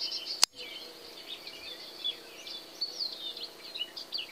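Small songbirds chirping and twittering in the trees, with a single sharp click about half a second in.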